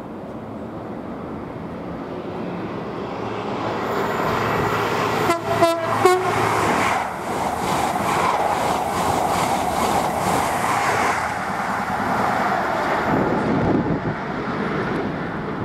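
InterCity 125 HST passing through at high speed: the noise builds, two short horn blasts sound about five and a half to six seconds in, then the diesel power car and coaches rush past with a regular clatter of wheels over the rails, easing off near the end.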